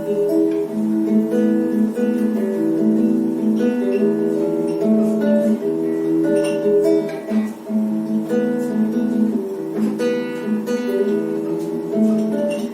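Acoustic guitar strummed and picked in a steady rhythm, playing an instrumental passage between sung verses of a song.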